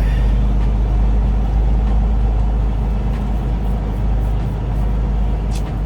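Semi truck's Detroit Diesel Series 60 inline-six diesel engine running with a steady, heavy low rumble.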